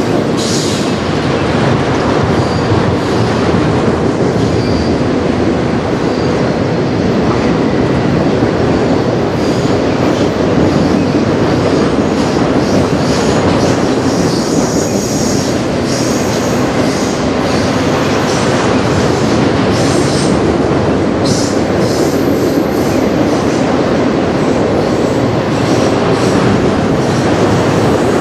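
Freight train of autorack cars rolling past: a loud, steady rumble of steel wheels on the rails, with faint high wheel squeal now and then.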